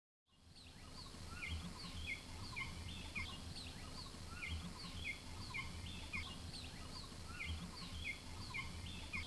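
Forest ambience: several birds calling with short, repeated chirps and whistles, two or three a second, over a low steady rumble. It fades in at the start.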